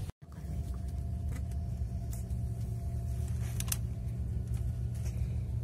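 Steady low rumble inside the carriage of a moving ICE high-speed train, with a faint steady hum above it and a few light clicks. The sound drops out for a moment right at the start.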